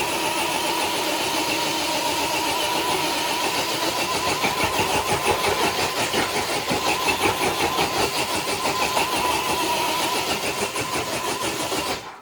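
Traxxas TRX-4 Bronco RC crawler's electric motor and gear drivetrain whining steadily under load as it drags a weighted sled across concrete, with a rough gritty scraping running under the whine. The sound stops abruptly near the end, as the truck completes a full pull.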